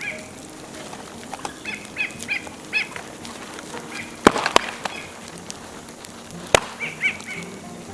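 Dead bamboo burning in a bonfire: a steady crackle with three sharp, loud pops, two close together in the middle and one later. Short high chirping calls come in two groups, one early and one near the end.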